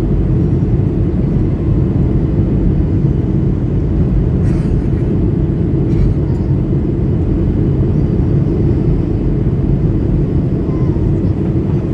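Steady low rumble of airflow and engines inside a Boeing 737-800's cabin in flight during descent, heard from a window seat.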